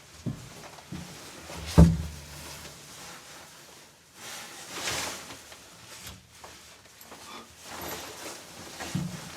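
A sharp wooden-sounding knock just under two seconds in, with lighter knocks before it and soft rustling, whooshing swells later, like things being handled and set down.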